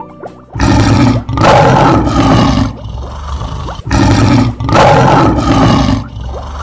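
Lion roar sound effect, played twice; each roar lasts about two seconds.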